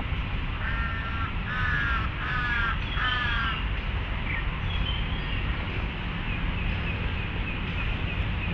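A crow cawing four times in quick succession, each call short and harsh, over a steady low rumble.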